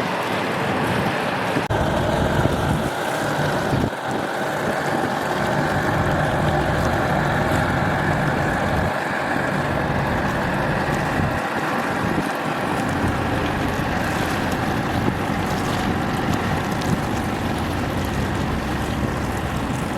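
Wind buffeting the microphone over a steady drone from a passing ship's engine.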